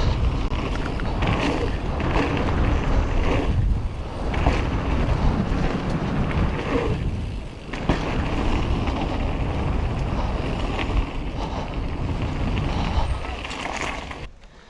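Wind rushing over the microphone of a mountain biker riding fast down a wet jump line, with rolling tyre and trail noise underneath. It eases briefly about halfway through and fades away near the end.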